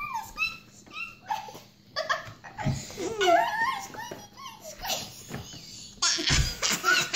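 Girls giggling and squealing in high, squeaky voices, in short gliding bursts. A low thump comes near the end.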